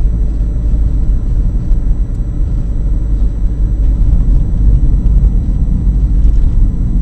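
Ford Tempo's four-cylinder engine and road noise heard from inside the cabin while driving: a steady low rumble.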